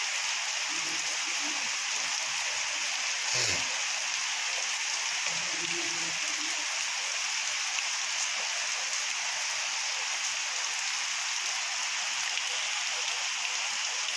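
Heavy rain pouring down steadily, a dense even hiss of drops on the ground and standing water. A brief louder splash or knock stands out about three and a half seconds in.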